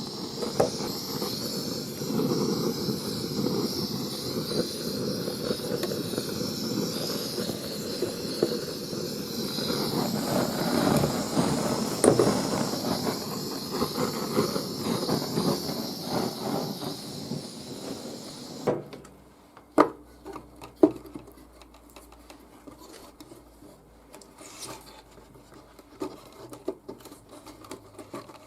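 Steady scraping and rubbing on wood, typical of a used wooden nest box being scraped clean, stopping abruptly about two-thirds through; a few sharp clicks and knocks follow.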